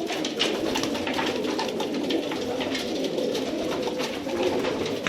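A flock of domestic pigeons cooing together in an enclosed loft, a steady overlapping chorus, with many short light clicks over it.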